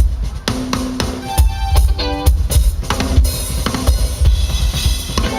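A band playing through a PA, led by a drum kit with bass drum and snare hits over a heavy bass line.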